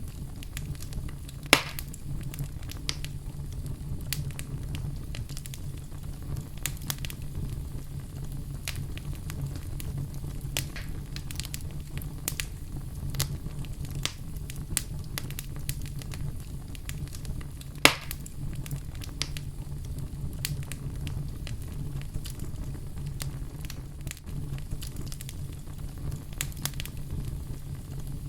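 Wood fire in a fireplace crackling and popping over a steady low rumble of the flames, with two sharp, louder pops, one about a second and a half in and one about two-thirds of the way through.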